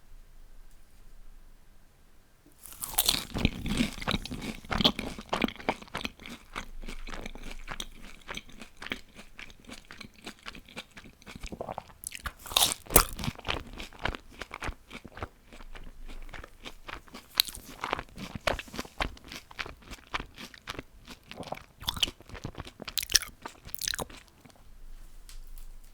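Close-up biting and chewing of crispy fried food, a dense run of loud crunches. It starts about three seconds in, and the loudest bites fall near the start, in the middle and near the end.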